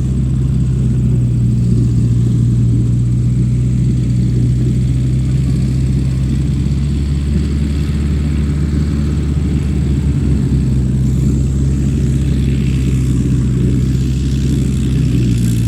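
The motor of a handmade miniature MF 385 tractor running steadily, a low, even hum that holds its pitch throughout.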